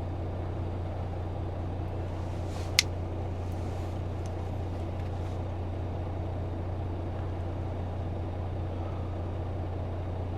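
Semi truck's diesel engine idling with a steady low hum. A single sharp click about three seconds in.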